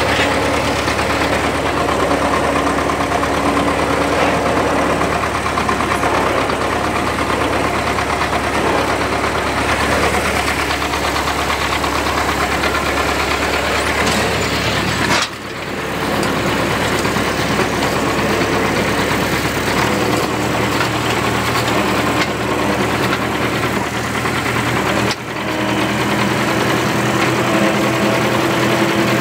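Tractor diesel engine running steadily, with brief drops in loudness about 15 and 25 seconds in and a change in the low hum about 20 seconds in.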